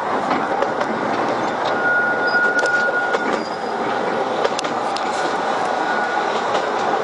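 Narrow-gauge mountain train running along its track, heard from its open car: a steady rolling rumble with scattered clicks from wheels and rails. A thin, high wheel squeal sets in about two seconds in and lasts about a second and a half.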